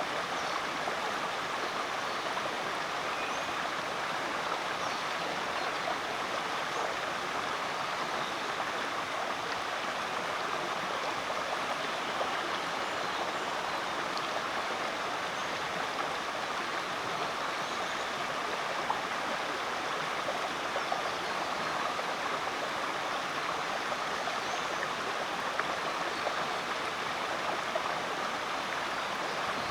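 Rainforest creek water running steadily over rocks, a constant rushing babble. Faint short chirps sound here and there above it.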